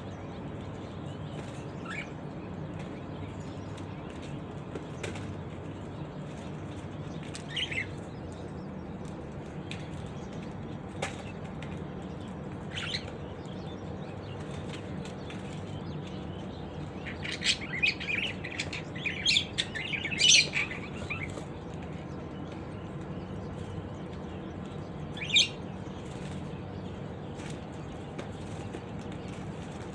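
Birds giving short, scattered chirps every few seconds over a steady low hum, with a louder, busier flurry of chirps and fluttering a little past halfway through.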